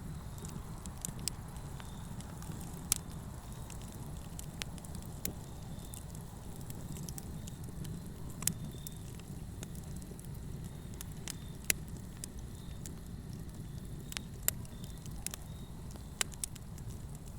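Wood fire burning with a steady low rumble and irregular sharp crackles and pops, several standing out louder than the rest.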